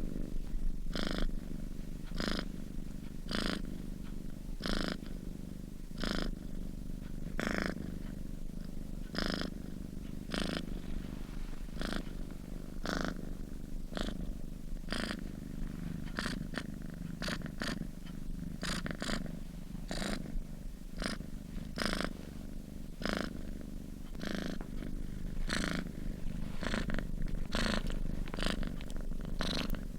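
Domestic cat purring in its sleep: a continuous low rumble that swells with each breath, the breaths about one every second and a half at first and coming faster in the second half.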